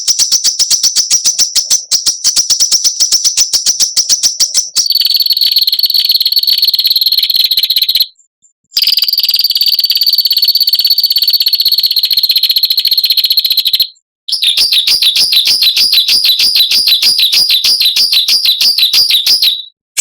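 Songbird giving a harsh, rapid buzzing trill (a 'besetan'), used as a bird-training recording. It comes in long runs of fast, high-pitched pulses that drop in pitch about five seconds in. The trill breaks off briefly twice, and the last run wavers up and down.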